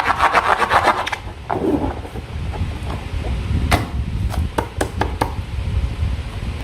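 Slime being squeezed and worked by hand: rapid crackling clicks for about the first second, a short squelch, then a few scattered single clicks.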